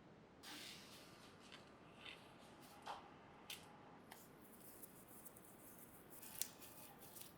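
Faint scattered clicks and short scraping sounds of small tools or parts being handled, with one sharper click a little over six seconds in.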